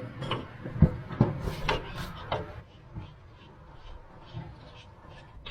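A handful of sharp clicks and knocks, about one every half second over the first two and a half seconds, then only a faint hush: handling of metal parts while the gearbox is opened to check its oil.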